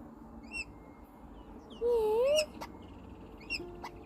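Australian king parrot giving short, high chirps about once a second. About two seconds in, a person says a drawn-out 'yeah', the loudest sound.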